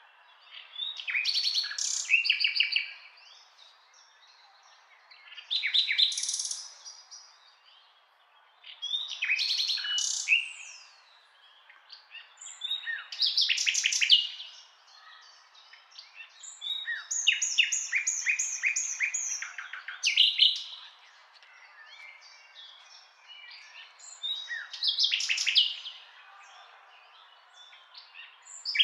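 Bird song: short phrases of rapid chirps and sweeping whistles, repeating every three to four seconds over a faint steady hiss.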